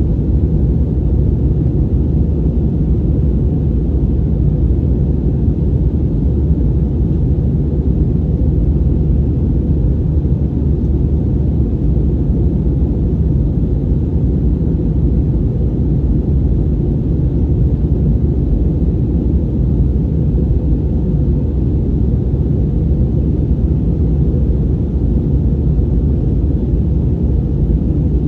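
Steady low rumble of engine and airflow noise inside the cabin of an Airbus A320-200 in flight.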